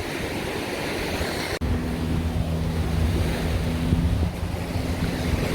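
Surf on the beach and wind buffeting the microphone. After a brief dropout about a second and a half in, a steady low engine hum joins the surf.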